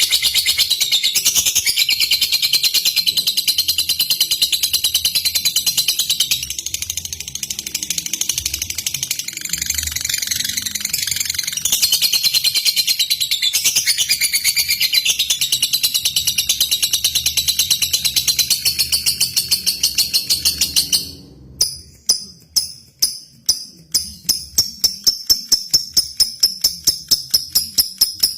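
Lovebird (Agapornis) singing a long, unbroken, high-pitched chattering trill. About three quarters of the way through, the chatter stops and gives way to fast, regular short pulses, about three a second.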